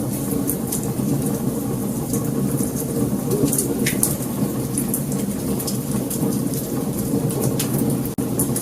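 Wood fire burning: a steady low rumble of flames with frequent sharp crackles and pops from the burning wood. A brief dropout about eight seconds in.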